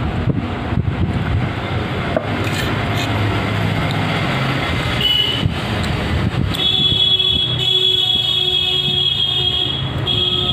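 Steady vehicle noise, joined about six and a half seconds in by a high, steady squeal.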